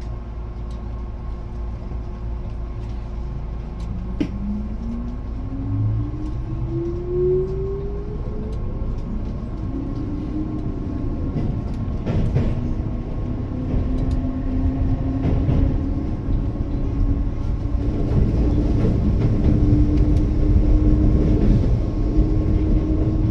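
Electric train accelerating, heard from inside: the motor whine rises steadily in pitch over about five seconds, then settles into a steadier tone as the rumble of wheels on rail grows louder. A few sharp clicks come through along the way.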